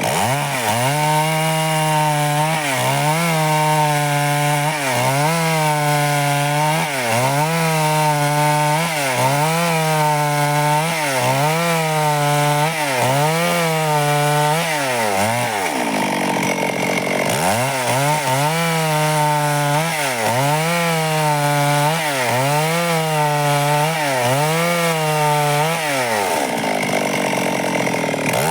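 Stihl two-stroke chainsaw cutting wood lengthwise into boards, its engine pitch dipping and recovering about once a second as the chain bites under load. Twice the revs sag away for a second or so before the saw pulls back up to speed.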